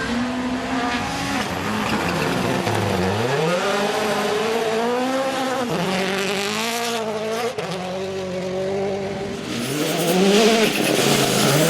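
Rally car engine at full effort, its pitch falling sharply and then climbing again several times as it shifts gears and accelerates. Tyre noise swells near the end.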